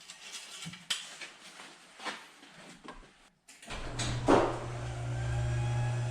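A few light clicks and knocks, then about three and a half seconds in the 3.6-litre Pentastar V6 of a 2011 Dodge Grand Caravan starts. It flares briefly and settles into a steady idle: the first start after new spark plugs and ignition coils.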